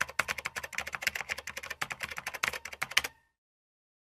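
Fast typing on a computer keyboard, a dense run of key clicks that cuts off suddenly about three seconds in.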